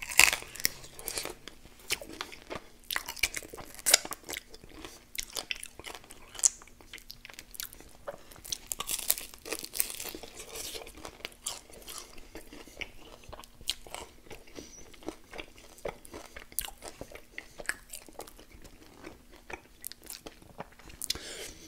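Crunching, biting and chewing of crispy fried chicken wings coated in peanut butter and jam sauce: irregular sharp crunches, loudest right at the start and about four seconds in.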